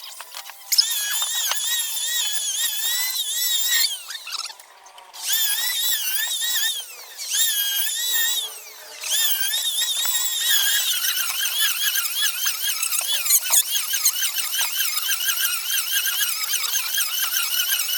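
Electric power tool motor whining under varying load, its pitch wavering up and down. It starts about a second in and stops briefly three times in the first nine seconds, then runs on without a break.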